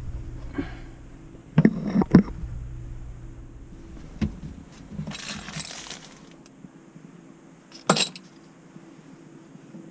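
Handling noise: a cluster of sharp clinks and knocks about two seconds in, another about four seconds in, a brief rustle around five seconds, and a last clink near eight seconds, over a low hum.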